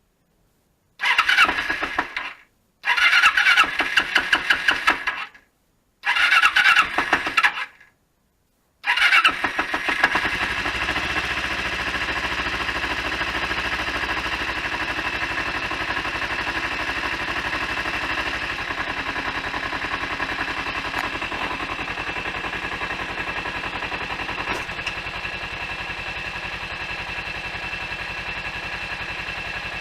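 Motorcycle engine being started: the starter cranks three times in short tries that don't catch, and on the fourth try, about nine seconds in, the engine fires and settles into a steady idle.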